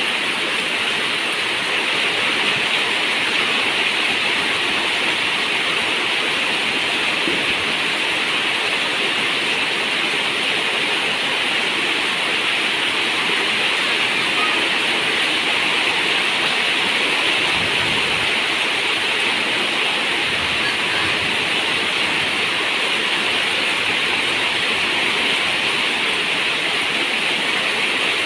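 Steady rain falling on a zinc roof, an even hiss that does not let up.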